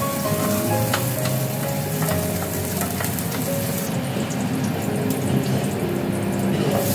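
Chopped garlic sizzling in hot oil in a frying pan, under background music with held notes. The sizzle thins for a couple of seconds in the second half.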